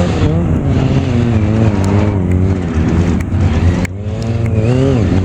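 Stunt motorcycle engine running and revving, its pitch wavering up and down with the throttle; it dips abruptly about four seconds in, then revs again with a falling-then-rising swoop near the end.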